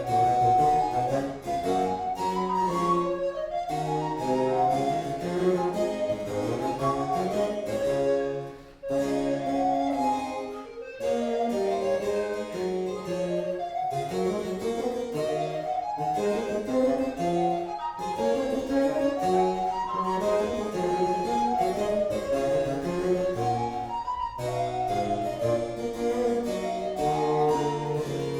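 Baroque chamber music: a recorder playing a quick melody over harpsichord with a low bass line, with a brief break about nine seconds in.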